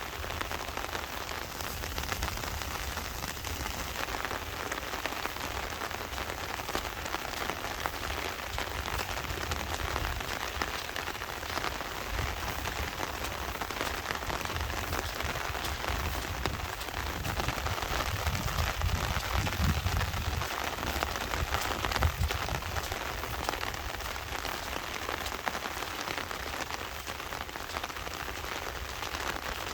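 Heavy rain falling steadily in a dense, even hiss. A low rumble underneath comes and goes and is strongest a little past the middle.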